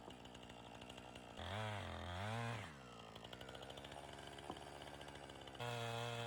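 Chainsaw engine running at low speed, revved up and back down once about a second and a half in, then opened up to a steady high speed near the end, as for sawing boards.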